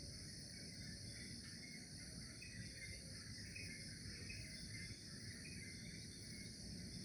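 Steady, faint chorus of insects such as crickets, with short irregular chirps lower in pitch and a low rumble of background noise beneath.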